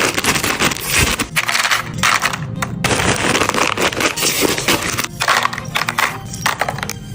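Busy clinking, rattling and crinkling of food packages and containers being handled and put in place: many small hard clicks with a rustling hiss, continuous and uneven.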